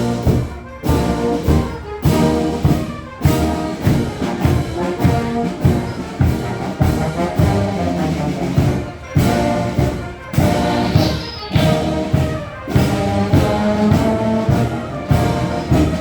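Marching band playing a march: brass instruments carry the tune over a steady beat of drums and cymbals.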